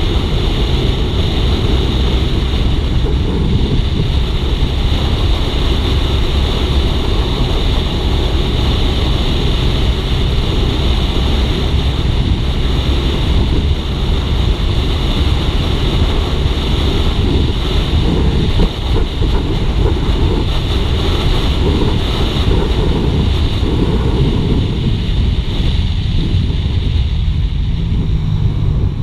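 Suzuki GSX-R150's single-cylinder engine running on the move, mixed with steady wind rushing over the microphone. Near the end the wind noise drops and the engine note comes through more clearly.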